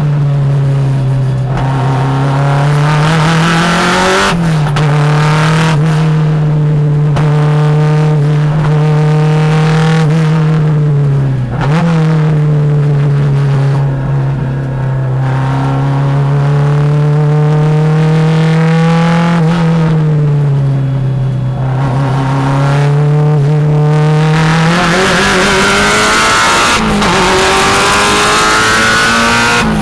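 Subaru STi race car's turbocharged flat-four running hard at high revs, heard from inside the cabin. The engine note holds mostly steady and dips and recovers briefly a few times as the car lifts and changes gear.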